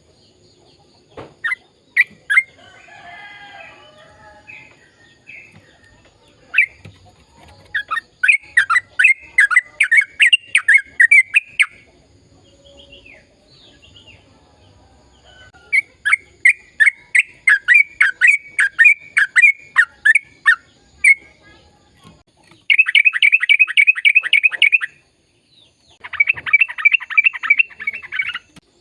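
Sooty-headed bulbul singing in long runs of rapid repeated chirping notes, a few seconds per run. The runs get faster and denser near the end, after a few softer, varied notes at the start.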